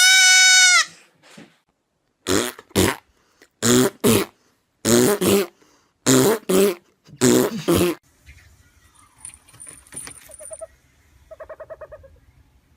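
An animal giving one high-pitched held cry, then five pairs of short loud calls in quick succession, followed by fainter scattered sounds.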